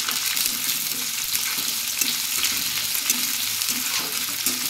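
Chopped onions sizzling steadily in hot oil in a kadai, stirred with a metal spatula that scrapes and ticks against the pan.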